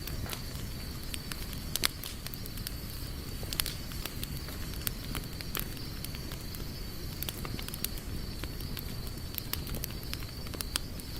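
Campfire burning, with irregular sharp crackles and pops over a low, steady rush of flame. A faint steady high-pitched tone runs underneath.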